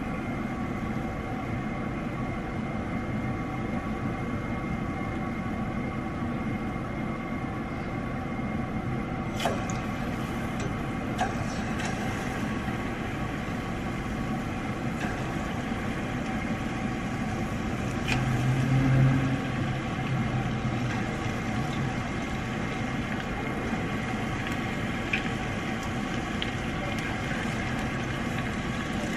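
Battered chicken pieces deep-frying in hot oil, a steady sizzle, with a steady hum under it that swells briefly about two-thirds of the way through.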